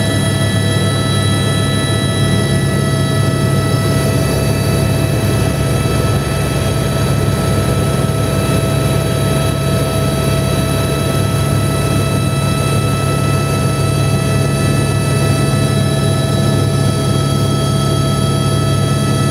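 Helicopter in steady flight: an unchanging low rotor and engine rumble with a steady high turbine whine above it.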